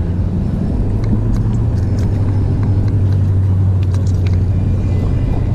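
Steady low rumble of wind and road noise on the camera's microphone while riding a bicycle along a road, with a steady low hum through the middle and a few faint clicks.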